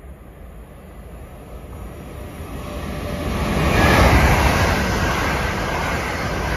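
TransPennine Express Class 802 train passing through the station at speed: the rush of the train grows louder, is loudest about four seconds in as the front coaches go by, then carries on steadily as the rest of the train passes.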